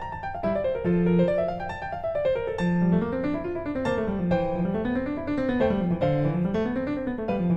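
Background piano music: rising and falling runs of notes in the low register under a higher melody.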